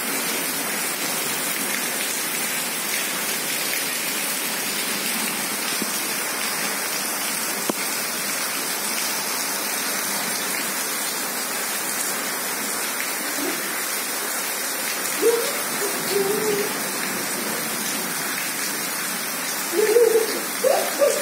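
Heavy rain falling steadily in an even, unbroken downpour. A child's voice comes in briefly about fifteen seconds in and again near the end.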